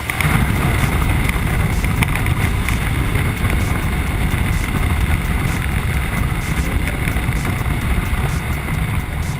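Ducati Multistrada motorcycle being ridden at speed, its engine running steadily under heavy wind rush on the microphone; the sound comes in abruptly at the start.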